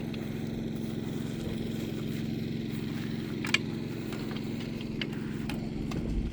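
Motocross bike engine idling steadily, with a few sharp clicks, the loudest about three and a half seconds in.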